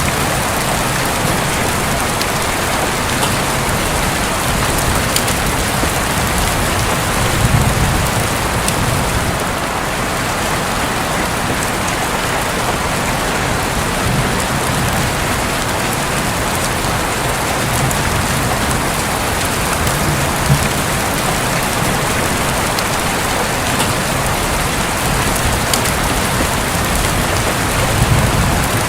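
Heavy rain falling steadily on a roof, a dense even hiss with scattered sharp drop ticks. Low rumbles of distant thunder swell up a couple of times, about a third of the way in and near the end.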